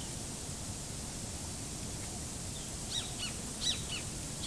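Steady outdoor hiss with a bird calling in the second half: a few short notes that each slide downward, several in quick succession.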